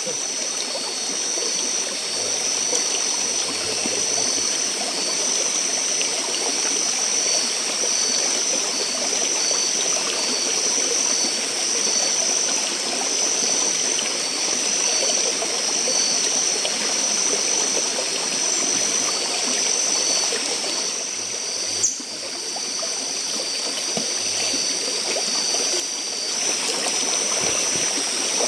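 River or forest stream water running steadily. Over it is a steady high-pitched buzzing with a rapid pulsing just below it. A single sharp click comes about 22 seconds in.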